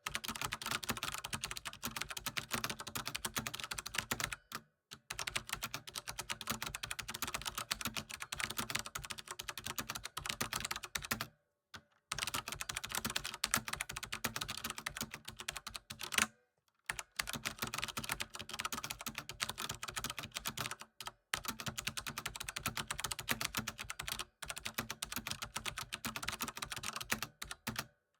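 Computer keyboard being typed on quickly and continuously: a dense run of key clicks, broken by short pauses every few seconds.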